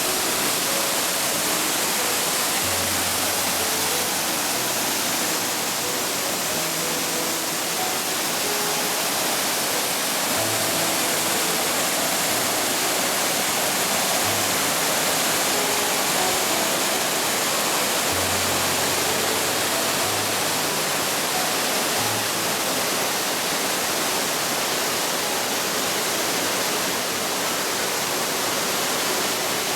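Waterfall, a steady dense rush of falling water, with faint background music of short pitched notes underneath.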